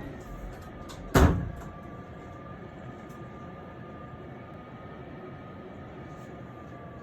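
Typhoon wind whistling through shut doors and windows: a thin, steady whistle that drifts slowly in pitch over a rushing noise. About a second in there is a single loud bang.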